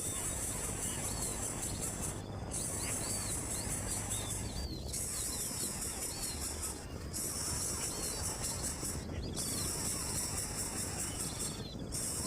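A high-pitched insect drone that cuts out briefly about every two seconds and starts again, with short bird chirps over it.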